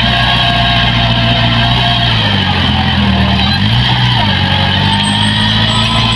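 Diesel engine of heavy farm or earthmoving machinery running steadily under load; its note shifts about two seconds in and settles back about a second and a half later, with a thin whine rising slightly near the end.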